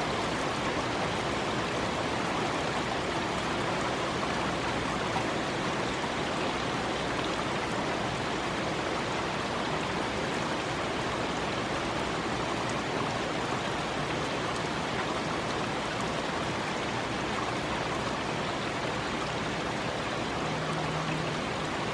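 Rain falling steadily in a thunderstorm, a continuous even hiss of drops on surfaces.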